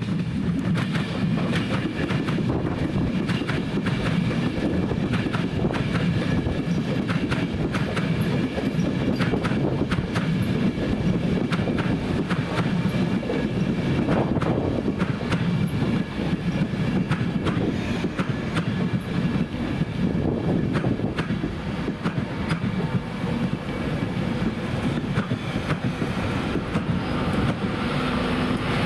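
LNER InterCity 225 set (Mark 4 coaches with a Class 91 electric locomotive) passing close at low speed: a steady rumble with wheels clicking over the rail joints and a faint high whine.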